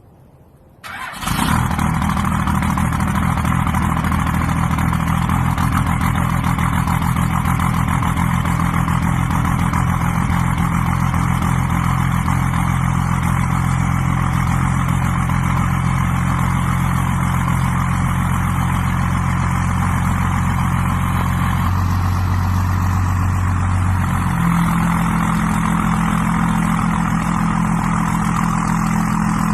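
Large diesel engine on a cold start, coming in abruptly about a second in and then running steadily; its pitch steps twice in the last third.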